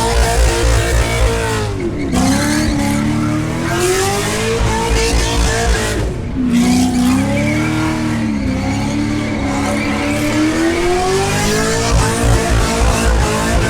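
V8 engine held at high revs in a burnout, the revs dropping sharply about two seconds in and again about six seconds in, then climbing back up each time, over a steady hiss of spinning tyres.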